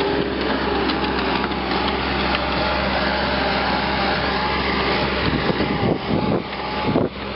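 Power wire brush running against a steel tractor rim, scouring off rust and old paint with a steady harsh grinding over the motor's hum. It eases and changes briefly twice near the end as the brush shifts on the rim.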